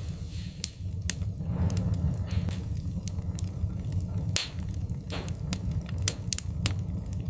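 Wood fire crackling in a fireplace: irregular sharp pops and snaps, about a dozen, the loudest about four seconds in, over a steady low rumble.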